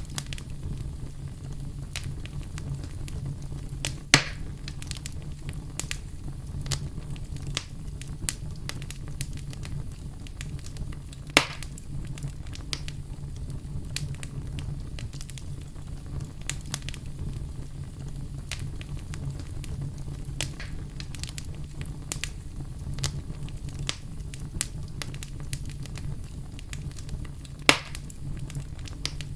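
Wood fire crackling, with many small pops and three louder snaps about 4 seconds in, about 11 seconds in and near the end, over a steady low rumble.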